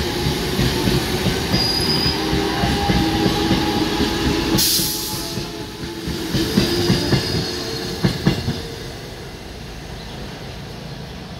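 Eastern Railway suburban electric local train running past close by, its wheels clattering over the rail joints with a steady hum. A brief hiss comes about four and a half seconds in, a run of sharp wheel knocks follows a few seconds later, then the sound drops to a quieter rumble as the train moves away.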